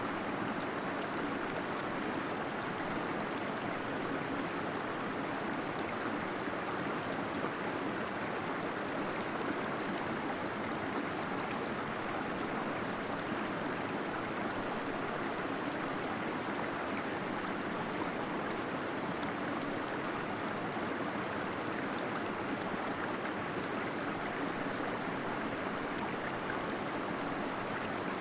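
Small waterfall splashing and gurgling steadily into a cave pool, the water noise echoing off the rock.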